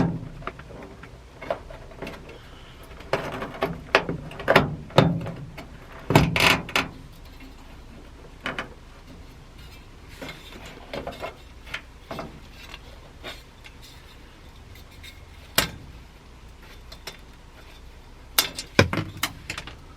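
Scattered clicks, knocks and rattles of car interior trim pieces and their clips being pried loose and handled, with a busier clatter a few seconds in and again near the end.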